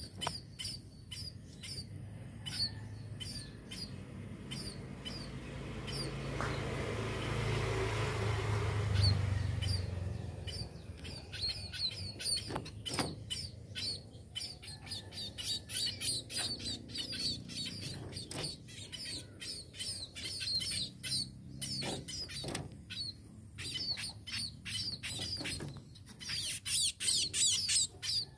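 Small munias (pipit/emprit) chirping: a steady run of short, high chirps, with a thicker burst of calls near the end. A rushing noise swells and fades about a quarter of the way in, and a few sharp clicks are heard.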